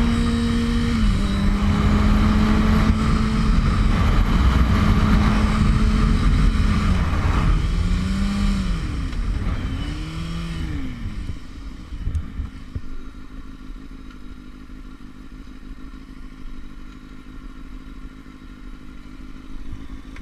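Motorcycle engine running at a steady speed with heavy wind noise. About seven seconds in its pitch sweeps down and up a few times as the bike slows, and for the second half the engine runs quieter at a low, steady hum.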